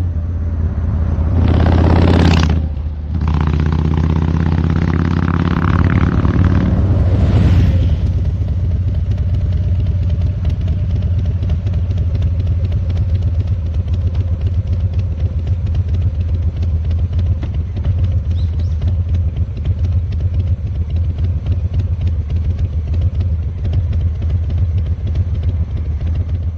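Harley-Davidson Fat Boy 107's Milwaukee-Eight V-twin running through Vance & Hines Eliminator 300 slip-on mufflers, with the stock air cleaner, while riding. It revs up hard twice with a short drop between, as on a gear change, in the first eight seconds, then settles into a steady cruising note.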